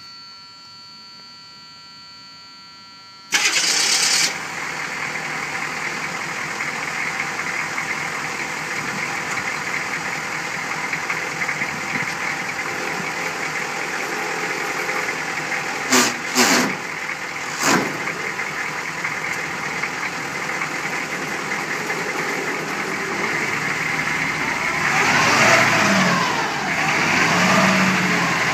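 The 6.2-litre diesel V8 of a 1986 Chevrolet M1031 contact truck, started about three seconds in after a few seconds of a faint steady tone, then running steadily. There are a few sharp clicks about halfway through, and near the end the engine speed swings up and down.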